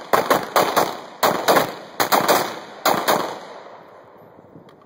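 Gunfire from several shooters on a firing line: about a dozen shots in the first three seconds, some in quick pairs, each with a short echo, then the shooting stops.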